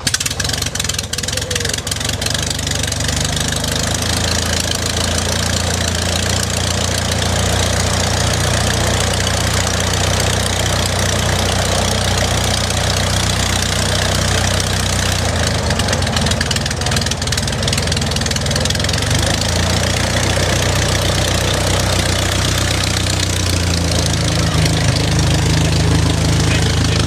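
De Havilland Tiger Moth's four-cylinder Gipsy Major engine running at a steady idle on the ground, having just been hand-propped into life. It picks up slightly near the end.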